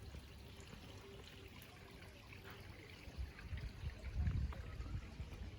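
Faint running, trickling water, with a low rumble that swells about four seconds in.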